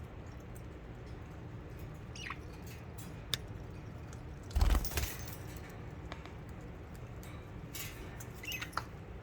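Budgies chirping now and then: a few short falling chirps about two seconds in and again near the end. A sharp click comes about three seconds in, and the loudest sound, a thump with a rustle, comes about halfway through.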